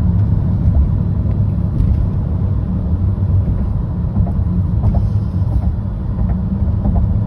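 Exhaust drone heard inside the cab of a 2013 Jeep Grand Cherokee's 5.7 Hemi V8, which has Cherry Bomb mufflers in place of the stock suitcase muffler and a resonator delete: a steady, loud, low hum at an even engine speed. The missing muffler and resonator are what let the drone into the cab.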